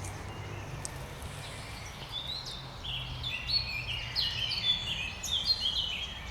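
A songbird singing a song of quick, clear notes that step up and down in pitch, starting about two seconds in and running for about four seconds, over a steady low background rumble.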